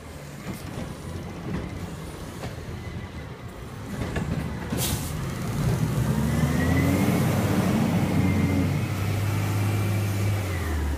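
Garbage truck engine revving up about four seconds in and holding high with a steady whine, then dropping back near the end. A short hiss comes about five seconds in.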